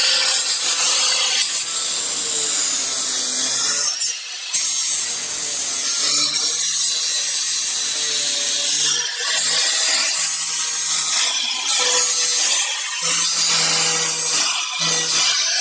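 A power tool cutting sheet metal, running with a harsh buzz and stopping briefly about four seconds in, then going on in short stretches. It is slitting a door-bottom repair panel at the corner.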